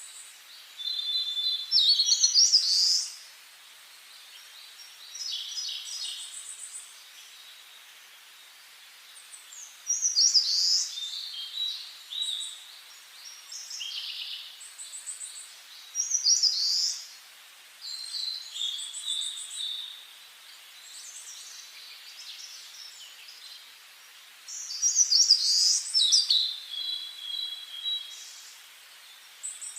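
Several songbirds singing in a forest, short high-pitched phrases and trills coming in bursts every few seconds over a faint steady hiss.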